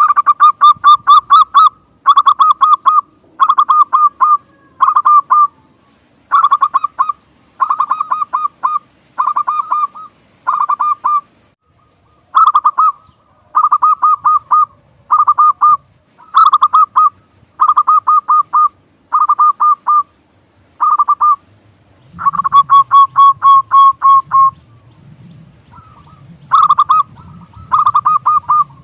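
Zebra dove (perkutut) cooing: short phrases of quick, rapidly repeated notes come about once a second with brief gaps between them, and a longer unbroken run comes a little past twenty seconds in.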